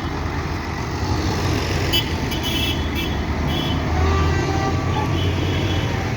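Tractor engines running steadily, with short horn toots about two seconds in and again near the end.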